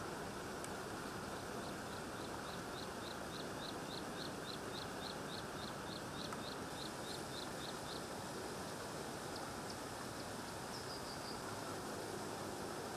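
Steady outdoor background noise with a small bird repeating a short high chirp about three times a second, stopping about eight seconds in, then a few scattered chirps and a short falling run of notes.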